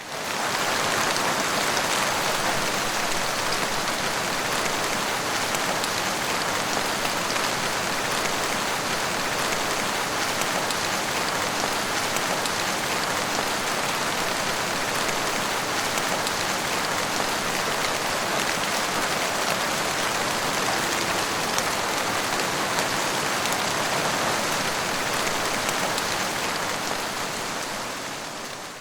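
Steady, heavy rain falling, a dense even patter without thunder. It fades in at the start and fades out near the end.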